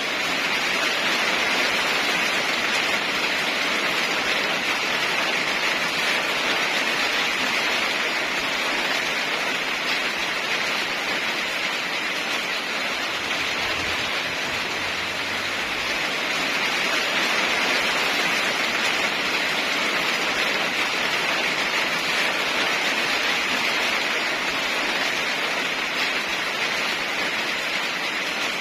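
Steady heavy rain, a dense even hiss of falling water that swells and eases slightly.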